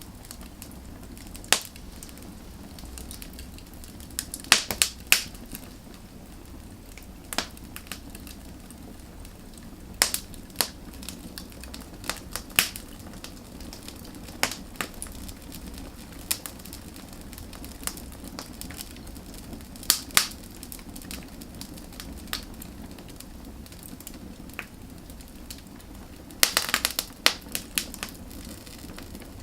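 Wood fire burning: irregular sharp crackles and pops over a steady low hiss, with a quick cluster of pops near the end.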